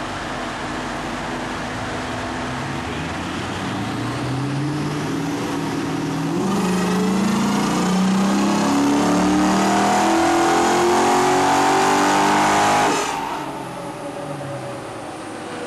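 A Chrysler SRT8's 6.1-litre HEMI V8 making a full-throttle pull on a chassis dyno. The engine note climbs steadily in pitch and grows much louder about six seconds in, then the throttle shuts near the end and the revs fall away.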